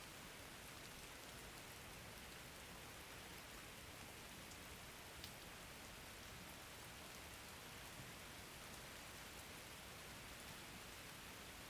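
Faint, steady rain, with a few sharp drop ticks here and there; the clearest comes about five seconds in.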